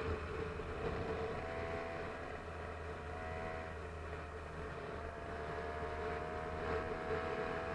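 Small engine on a motorised bicycle running at a steady speed, with a held drone and no marked revving.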